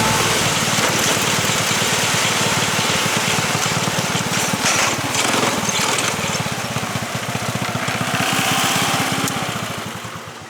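Racing kart's Subaru KX21 single-cylinder engine running, a fast, even train of firing pulses under a wide hiss of wind and road noise. It dies down over the last couple of seconds.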